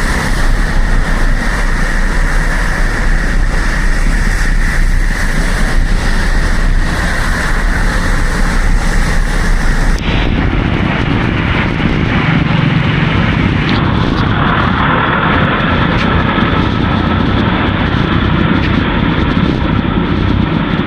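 Loud, steady rush of wind over an action camera's microphone on a moving bicycle, mixed with road noise. About halfway through, the high hiss cuts off abruptly.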